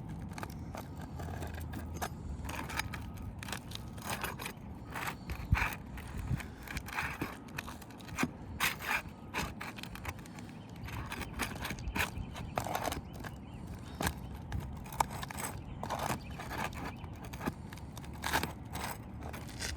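A roofing nail being worked out of a ridge cap shingle: irregular scrapes and short knocks of a tool against the shingle and nail.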